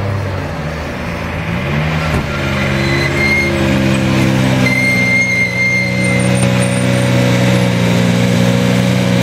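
Rally car engine running at steady revs; the pitch dips briefly and climbs back about two seconds in, then holds level.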